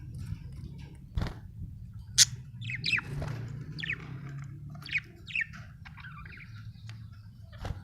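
Budgerigar chirping in short, quick chirps, with a couple of sharp knocks about one and two seconds in, over a low steady hum.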